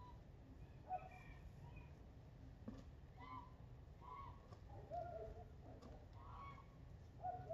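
Several faint, short honking bird calls scattered through, over a low steady rumble.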